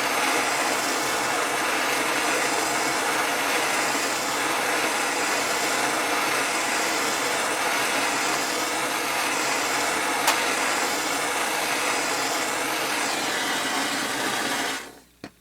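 Steady rushing hiss of a heating tool playing on a seized metal part to loosen it, shut off suddenly near the end. One faint click partway through.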